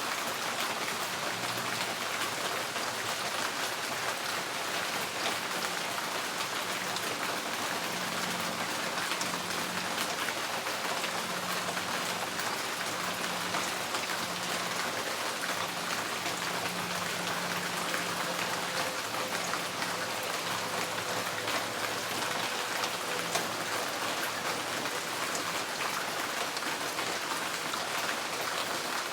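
Steady rain falling on a tin porch roof: an even, dense patter of drops on the metal that holds at one level throughout.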